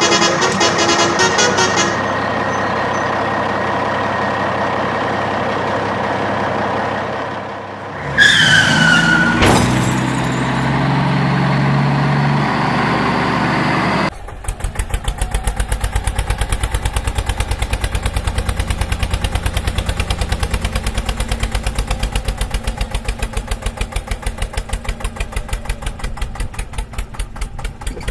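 Vehicle engine sounds in several parts: a steady engine-and-horn-like sound for the first eight seconds, a brief falling whistle about eight seconds in, then from about fourteen seconds an even engine chug at roughly four beats a second, like a diesel idling.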